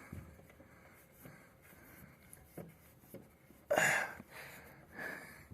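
Quiet handling noises of ceiling-fan parts being fitted by hand, with one louder, short rasping noise about four seconds in.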